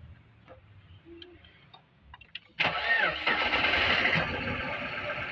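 Mercedes car engine, being checked for a misfire, started after a couple of quiet seconds: it catches suddenly about two and a half seconds in, runs up briefly, then settles into a steady idle.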